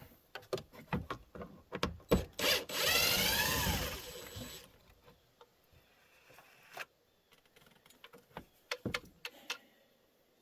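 Clicks and knocks of tools and parts being handled, then a small power-tool motor runs for about a second and a half, its pitch rising and falling, followed by a few more light clicks.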